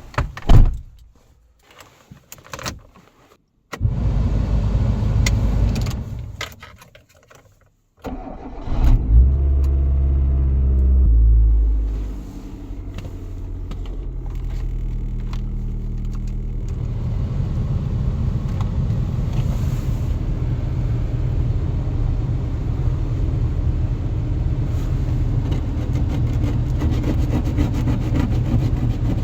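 Mitsubishi Colt 1.5i's four-cylinder petrol engine being started. A few clicks come first, then a burst of cranking that stops. About eight seconds in the engine starts with a brief loud rev, then settles to a steady idle.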